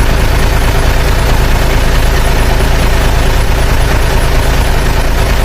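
Heavy engine running steadily with a loud, even, low rumble.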